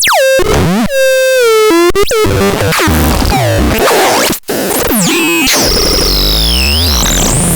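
Synthesizer patches being demonstrated: a tone falls sharply in pitch and holds, then a bending, buzzy tone follows; this turns into a dense, noisy, chaotic texture. The sound cuts out for an instant just before halfway, and a high wavering, falling whistle-like tone runs over the noise near the end.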